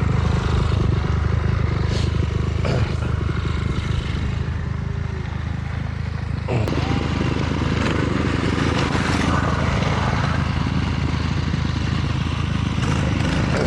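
Steady wind buffeting on the microphone and rolling rumble from an electric bike being ridden along a dirt track.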